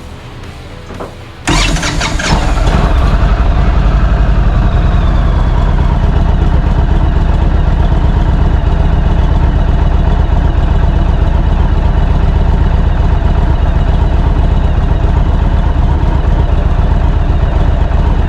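Indian Roadmaster's air-cooled V-twin engine starting about a second and a half in, then idling loudly and steadily. It is a short run after an oil change, to circulate the new oil before the last of it is topped up.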